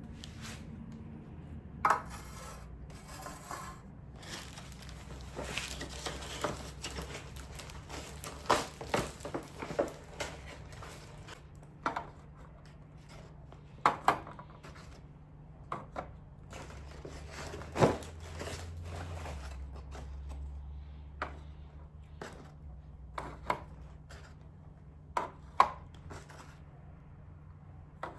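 Household objects being handled: scattered clicks, knocks and light clatter, some ringing briefly, with some rustling, over a steady low hum.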